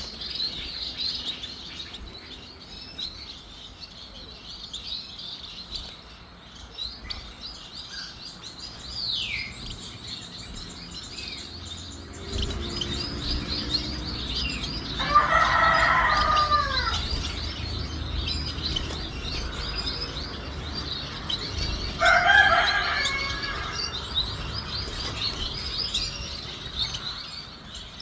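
Society finches chirping continuously, a rapid run of thin, high twittering notes. A louder, lower drawn-out call breaks in twice, once for about two seconds around the middle and once more briefly a few seconds later.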